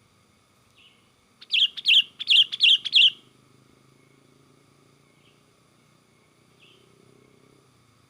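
Sooty-headed bulbul giving excited calls: a quick run of about five loud chirps about a second and a half in, with a few faint single notes before and after.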